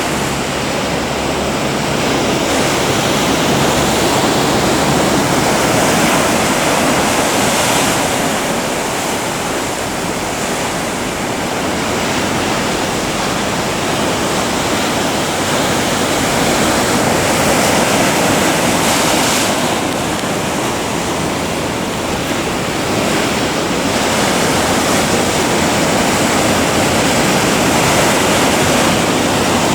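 Heavy ocean surf: waves breaking in a continuous loud rush of water that swells and eases every several seconds.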